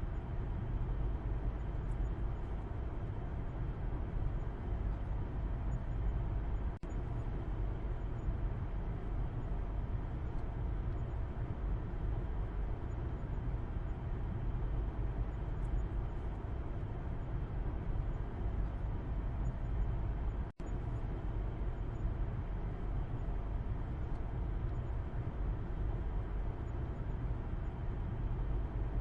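Car cabin road noise from the back seat while driving: a steady low rumble of tyres and engine, cutting out for an instant twice.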